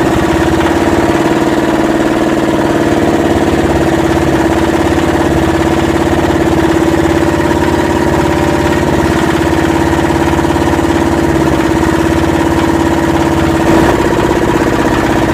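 Yanmar SB12 single-cylinder marine diesel idling steadily out of gear, running after a fuel line repair, with a short knock near the end.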